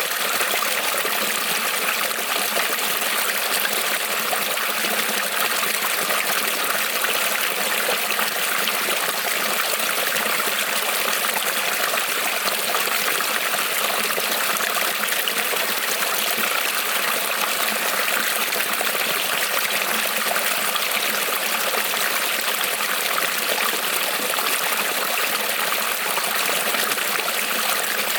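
Creek water rippling and trickling over stones, a steady even rush.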